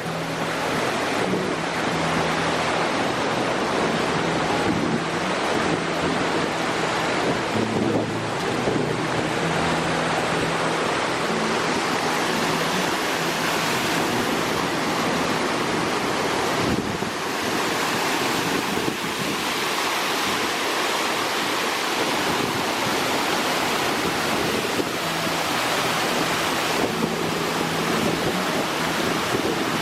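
A waterfall's steady rushing water, loud and unbroken. Faint background music with low stepped notes sits underneath.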